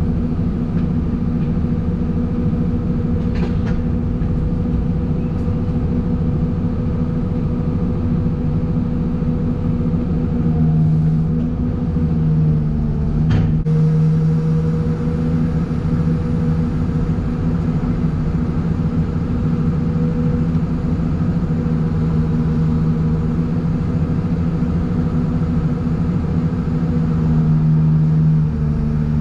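Heavy truck engine running steadily under way, a constant low drone that holds its pitch, with one brief click about halfway through.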